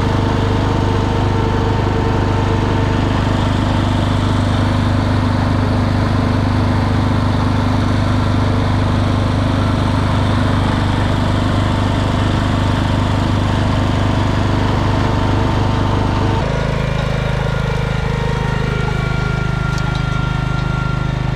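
Garden tractor engine running steadily under load while working the field. About sixteen seconds in the sound changes abruptly to a different steady engine note.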